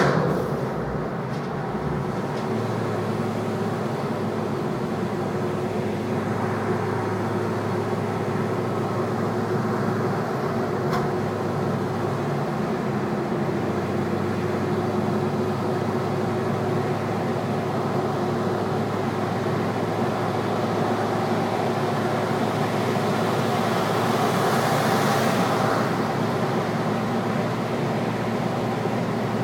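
Decatted Ford Focus ST engine and exhaust droning at a steady engine speed, swelling slightly near the end.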